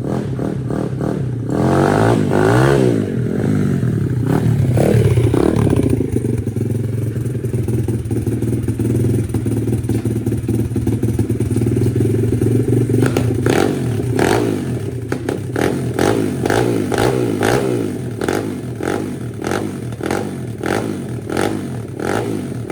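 Single-cylinder four-stroke pit bike engine running with a freshly fitted aftermarket cam. It is revved up and back down a couple of times early on, runs steadily for several seconds, and then beats with a regular series of sharp pulses through the second half.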